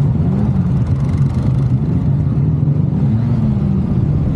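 Road vehicle engine running steadily at cruising speed, its low hum rising and falling slightly in pitch.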